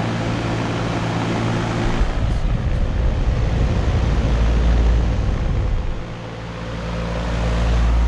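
Trane XB300 central air conditioner's outdoor unit running: a steady hum from the compressor and condenser fan. A heavy low rumble comes in about two seconds in, eases off around six seconds, and builds again near the end.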